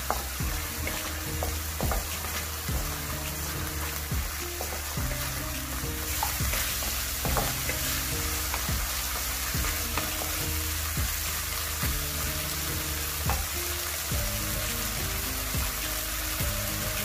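Sliced chicken sizzling in coconut milk and green curry paste that has cooked down and split into oil, in a nonstick wok. It is stirred with a wooden spatula that scrapes and taps the pan many times. The sizzle grows a little louder about six seconds in.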